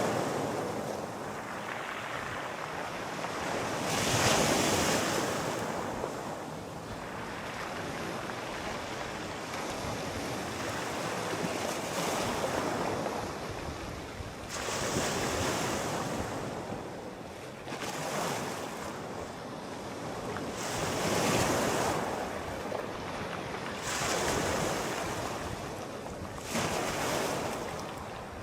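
Sea waves breaking and washing up the shore, swelling into a louder surge every few seconds, with a steady rushing hiss between them.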